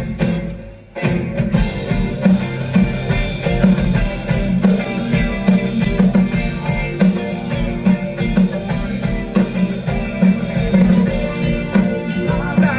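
Rock band playing live, an instrumental break with guitars and drum kit; the band drops out almost completely for about a second near the start, then comes back in.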